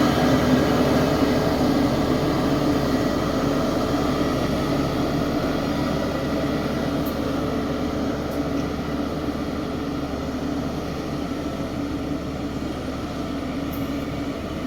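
Heavy earthmoving machine's engine running steadily, slowly getting quieter.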